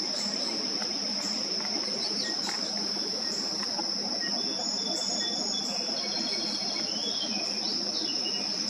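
A steady, unbroken high-pitched insect trill, with a few short, faint bird chirps over it.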